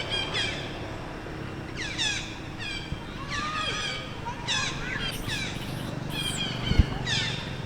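Baby long-tailed macaque giving a string of short, high-pitched cries that fall in pitch, repeated every second or so: an infant's distress crying when its mother will not let it nurse. There is a low thump near the end.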